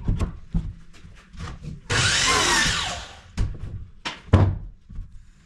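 A run of knocks and thuds, the loudest about three and a half and four and a half seconds in, with a loud rushing noise lasting about a second, starting about two seconds in.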